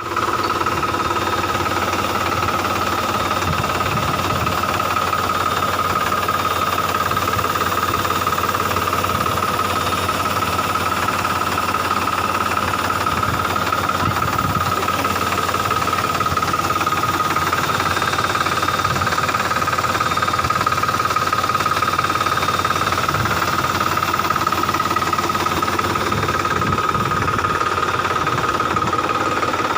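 Tractor-run milking machine running steadily: engine and vacuum-pump noise with a constant high whine, unchanging throughout.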